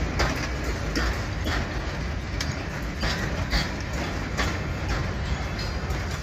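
Loaded grain hopper wagons of a freight train rolling past with a steady rumble. Wheels click and clank over the rail joints about twice a second.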